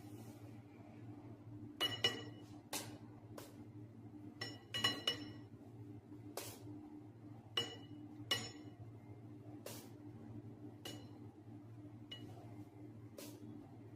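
Light clinks of kitchen utensils or tools against glass or metal, about fifteen short taps at irregular intervals, some with a brief ring. A steady low hum runs underneath.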